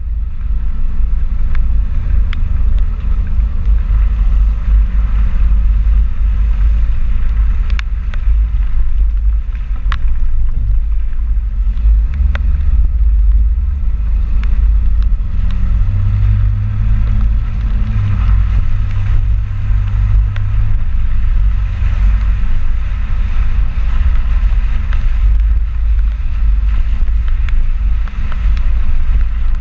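Ford 4x4 pickup truck driving on the road: a loud, continuous low rumble of engine, tyres and vibration, with a steadier drone for a few seconds past the middle.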